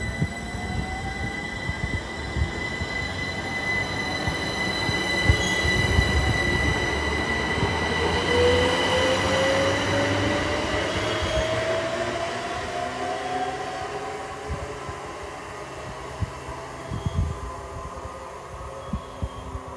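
A train running through the station: its sound swells over several seconds and then fades, with a steady high-pitched whine and a tone that rises in pitch midway. Sharp knocks of the wheels over rail joints run underneath.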